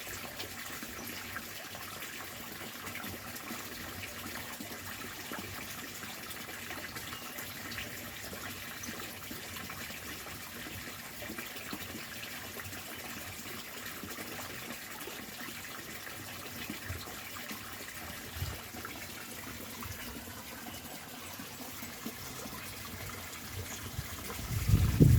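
Water rushing down a fish ladder: a steady, even flow of water. Near the end, a few louder low bumps come in.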